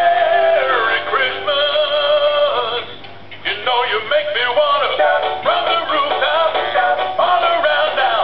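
Singing toy puppy playing a song with a synthetic singing voice over an electronic backing, with a short break about three seconds in.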